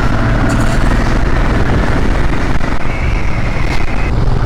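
Royal Enfield Himalayan Scram 411's single-cylinder engine running steadily as the motorcycle rides along, under a steady rush of road and air noise.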